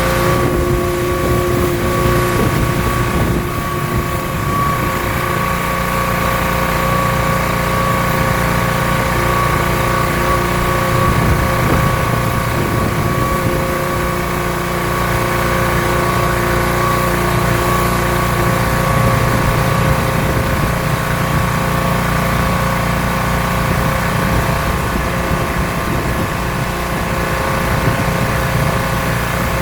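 Gas pressure washer running steadily under load, its small engine holding a constant drone while the pump sprays water.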